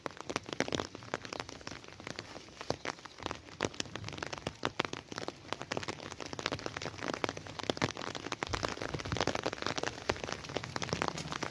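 Steady rain falling, a dense, uneven patter of many sharp individual drop impacts.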